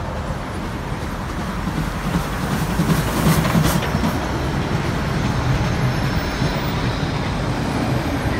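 A train running along the rails: a steady, loud noise of wheels and running gear.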